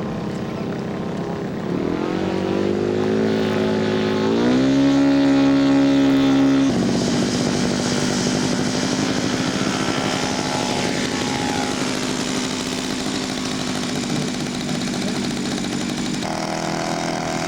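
Radio-controlled scale model airplane's engine running in flight, rising in pitch and getting louder over a few seconds, then dropping suddenly in pitch about seven seconds in as the plane passes and running on steadily.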